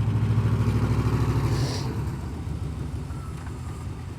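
A vehicle engine running with an even pulse, easing off to a lower, quieter run about two seconds in.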